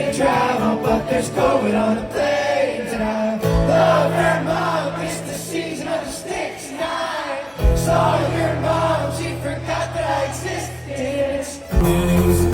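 Live band music with a group of voices singing over sustained bass notes.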